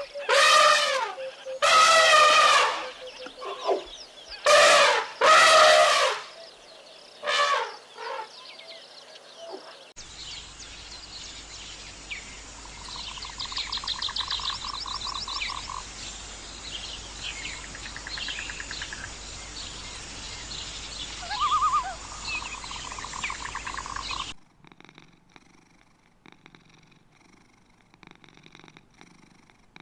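Several loud animal calls, then a stretch of birdsong with repeated trills over an outdoor background, then a faint, quiet stretch near the end.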